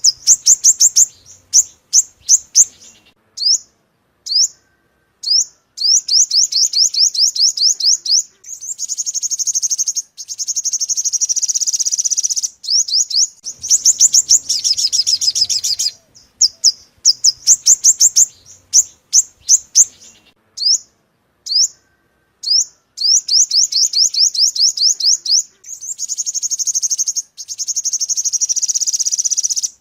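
Yellow-bellied sunbird song played as a bird-catching lure: runs of sharp, high chirps and long, fast trills with short gaps between, the same sequence repeating about every 13 seconds as a loop.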